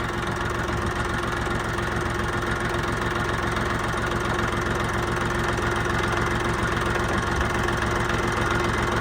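Tafe 45DI tractor's diesel engine running steadily at low revs, with no change in speed.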